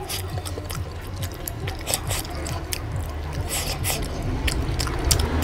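Close-miked eating of mutton curry and rice: many quick wet clicks and smacks of chewing, irregular and close together.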